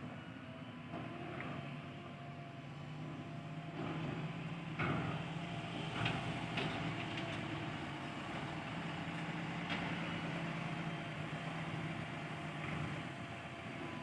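Diesel engine of a JCB 3DX backhoe loader running steadily while loading mud, its note swelling from about four seconds in. A few short knocks come around the middle.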